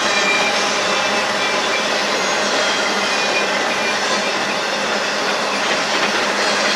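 Empty intermodal spine cars of a freight train rolling past: a steady rattle of wheels on rail, with faint high wheel squeal.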